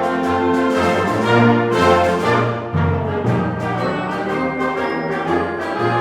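A community concert band (wind band) playing live, with brass to the fore and horns and trombones holding full sustained chords over low bass notes, the harmony moving every second or so.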